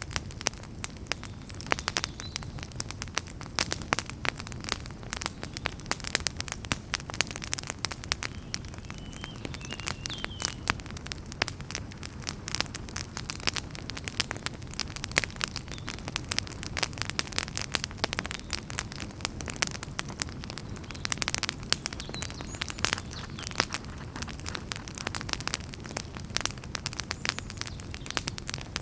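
Wood fire burning and crackling: dense, irregular pops and snaps over a steady low rumble of the flames.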